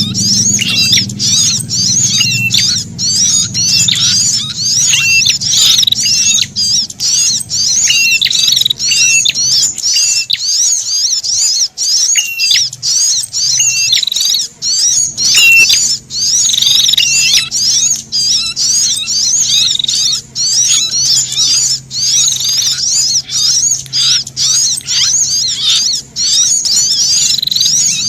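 Looped bird-lure recording of a sunbird's agitated alarm and distress chirps mixed with prinia distress calls. The chirps are rapid, high-pitched and repeated several times a second without a break, the frightened 'kejepit' calls used to draw wild birds in. A faint low hum runs underneath and drops out for a few seconds partway through.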